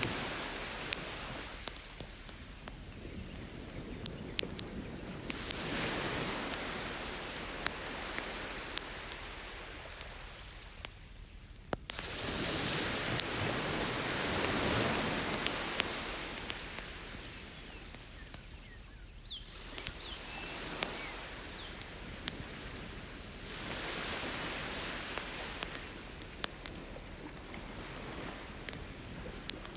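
Ocean waves washing onto the beach, a noise that swells and fades every six to ten seconds. Over it a wood campfire crackles, with many sharp pops scattered through.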